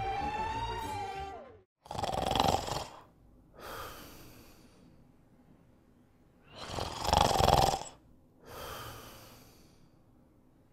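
Snoring: two snores about five seconds apart, each a loud breath followed by a softer one that fades out. It opens with the end of a wavering, whistle-like tone that slides down and stops.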